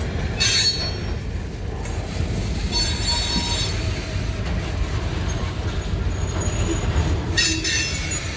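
Missouri & Northern Arkansas locomotive #2745, running as a single engine, rolling along the track with a steady low rumble. Its wheels squeal three times in short bursts: about half a second in, around three seconds in, and near the end.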